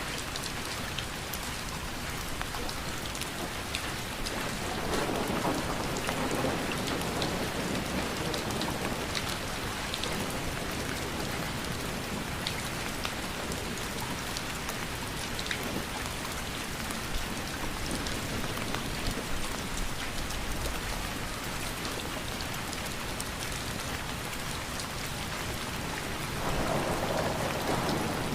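Steady rain falling, with separate drops ticking on a surface, swelling louder with a low rushing about five seconds in and again near the end.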